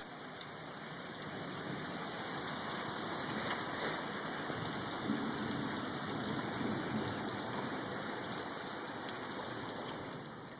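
Heavy downpour in a hailstorm: a steady rushing hiss of falling rain and water.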